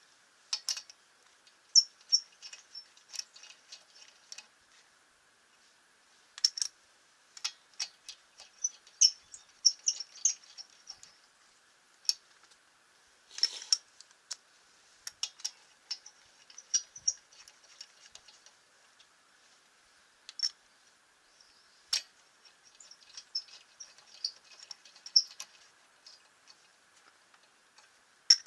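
Irregular sharp clicks and light taps of hand tools and small metal parts being handled, some louder than others, over a faint steady hiss; no impact wrench is running.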